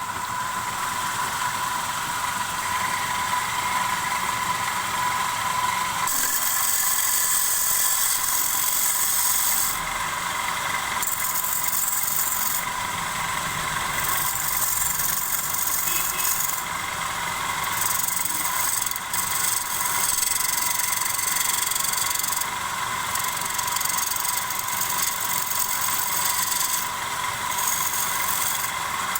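Wood lathe running with a steady motor whine while a turning tool cuts a spinning wooden bowl blank. The cutting is a hissing scrape that starts and stops every few seconds.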